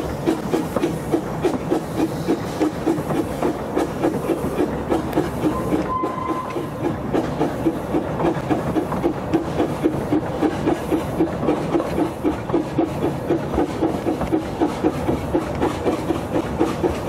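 Narrow-gauge train running at a steady speed, heard from an open carriage window: a regular rhythmic clatter of about two beats a second over the running noise. A brief high tone sounds about six seconds in.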